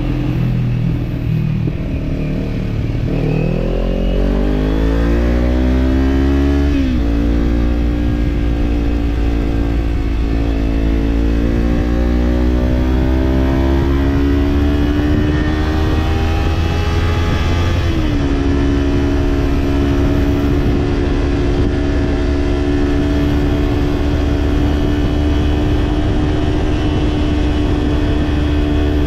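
Kawasaki Z parallel-twin motorcycle engine with an aftermarket slip-on exhaust, pulling from low revs and rising steadily, with a sharp drop in pitch at an upshift about seven seconds in. It climbs again for about ten seconds, shifts up once more, then holds a steady cruise.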